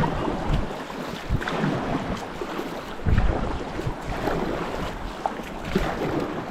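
River water splashing and rushing around a kayak, with wind buffeting the microphone in low thumps, the strongest about three seconds in.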